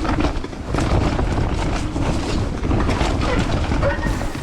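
Wind buffeting an action camera's microphone during a bike ride over rough ground, with steady rumble and many small rattling knocks from the bike.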